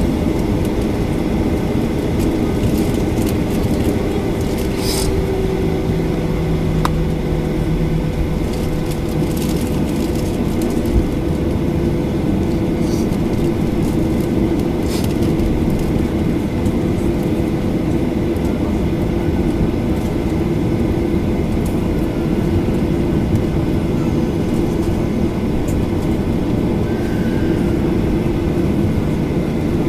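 Steady droning cabin noise inside a Boeing 737-800 on the ground, with a few faint clicks.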